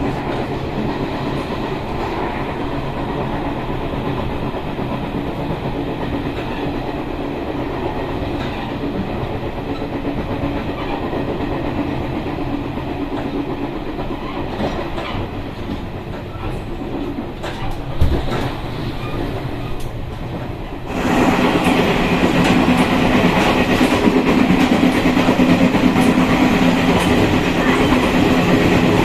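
Train running on the rails with a steady rumble and clatter of wheels over the track. About 21 seconds in it turns abruptly louder and stays so, with a single sharp knock a few seconds before.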